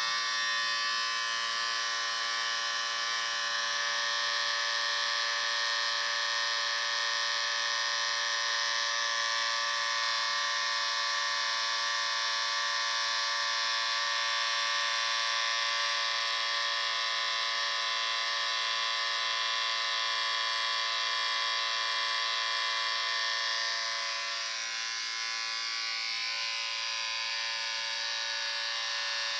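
Electric shaver running continuously with a steady buzzing hum, dipping slightly in level about 24 seconds in.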